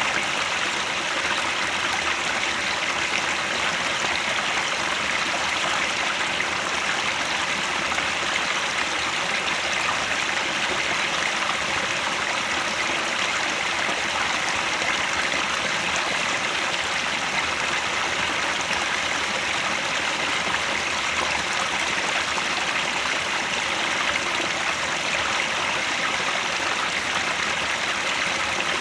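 Headwater stream flowing: a steady, even rush of running water.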